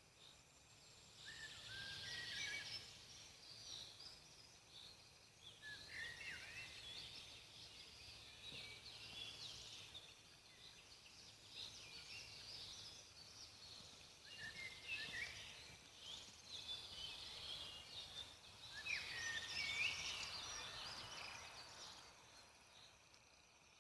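Songbirds singing in quick chirping phrases, four bursts a few seconds apart, over faint steady background noise.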